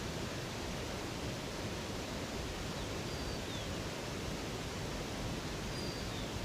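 Steady rush of flowing river water, with two faint, brief high bird chirps, one about halfway through and one near the end.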